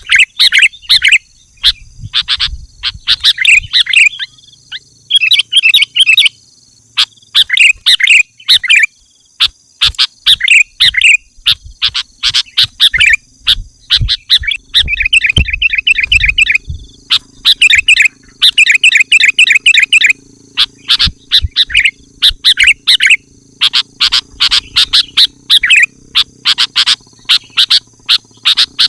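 Sooty-headed bulbul (kutilang) singing short phrases over and over, about one every second or two, over a steady high-pitched tone.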